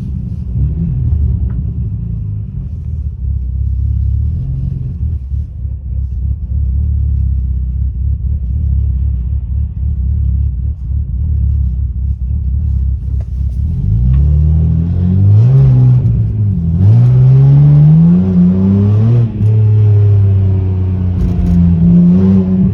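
Freshly swapped-in BMW N52 straight-six in an E90 idling, then revved repeatedly over the last third, its pitch climbing and dropping with each blip.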